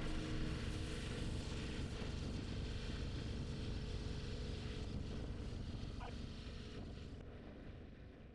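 Strong wind buffeting the microphone over the steady hiss of a pressure washer jet spraying; it fades out near the end.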